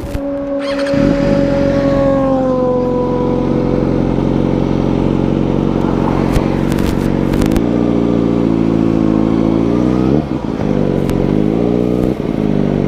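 Kawasaki Ninja motorcycle engine pulling away under power, revs climbing, with two quick upshifts about ten and twelve seconds in. Near the start a second engine tone slides slowly downward.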